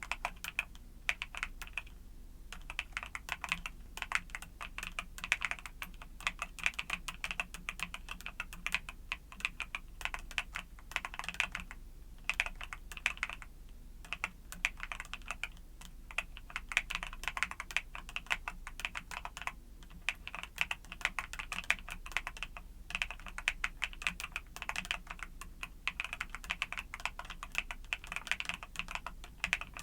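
Fast, continuous typing on a YUNZII mechanical keyboard with Cocoa Cream switches: a dense stream of key clacks, broken by a few short pauses.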